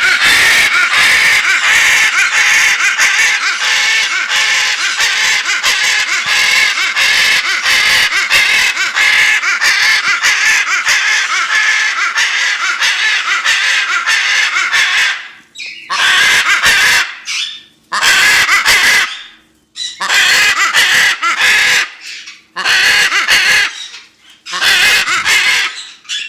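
Macaw screaming, very loud: an unbroken run of harsh screeches for about fifteen seconds, then about five separate screams with short pauses between them.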